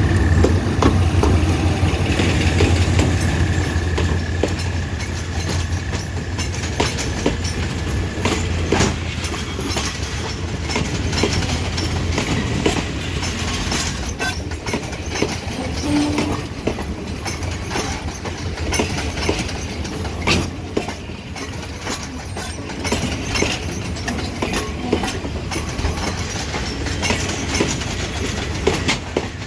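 General Electric diesel locomotive running as it pulls a departing passenger train past, its low engine drone loudest in the first several seconds and then fading. Passenger coaches then roll by, their wheels clacking over the rail joints.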